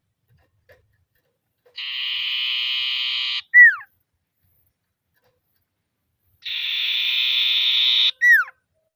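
Common iora (sirtu/cipoh) calling twice: each call is a dry buzzing trill of about a second and a half, ending in a short sharp note that falls steeply in pitch.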